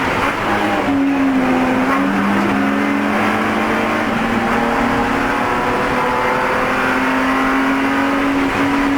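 Spec E46 BMW race car's inline-six running hard at racing speed. Its pitch sags about two seconds in, then climbs back up near the end.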